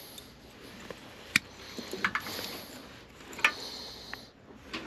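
A few sharp clicks over light rustling, from hands handling wires and small tools during rewiring.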